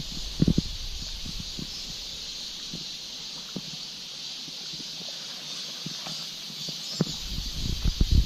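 Steady high-pitched buzzing of summer insects. A few low thumps come in the first second, and a low rumble with thumps builds near the end.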